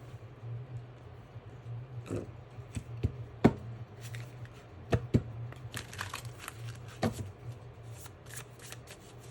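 Tarot cards being handled and shuffled: a few sharp card snaps and taps, then a quick run of rustling card flicks in the second half. A steady low hum runs underneath.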